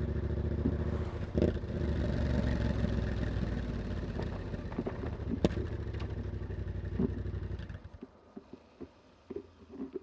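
Yamaha MT-07's parallel-twin engine running steadily through a carbon aftermarket exhaust with its dB killer fitted. It stops about eight seconds in, leaving a few scattered light knocks and clicks.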